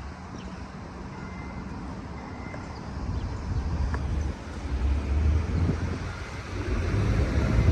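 City street traffic: car engines and tyres going by, louder about halfway through and again near the end.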